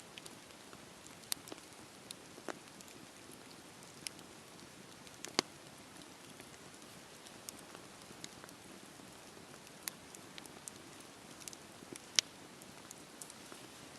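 Campfire burning: a soft steady hiss with irregular sharp crackles and pops, two of them louder, one about a third of the way in and one near the end.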